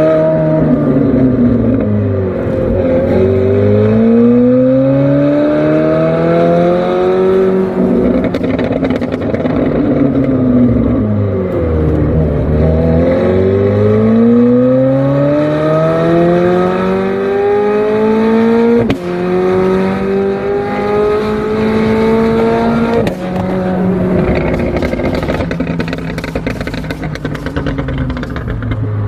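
McLaren 765LT's twin-turbo V8 accelerating hard and easing off on a winding road: the engine note climbs steeply through the revs, falls away as the car slows, then climbs again with quick upshifts about two-thirds of the way through and again near the end.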